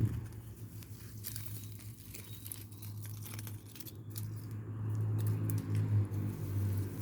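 A burning rubbish pile crackling: scattered sharp pops and rustles over a steady low rumble, busier and louder in the second half.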